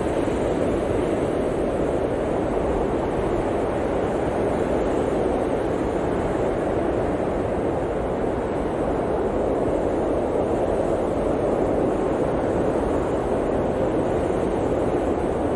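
Blizzard wind blowing steadily, a dense rushing noise with slow, slight swells.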